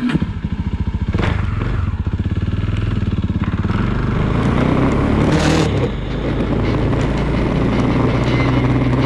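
Small Suzuki motorcycle engine pulling away and accelerating, pulsing at first and then running steadily. The engine sound drops briefly about six seconds in.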